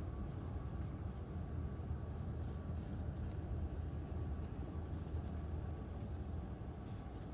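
Steady low rumble with a faint thin hum running through it and a few light scattered ticks, as of rain, over the top. There is no thunder crack.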